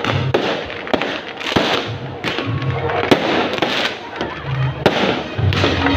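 Fireworks going off, several sharp bangs at irregular intervals over a dense crackling din.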